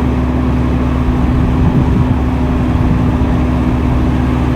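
Diesel engine of heavy earthmoving equipment running steadily, a low even drone with a constant hum.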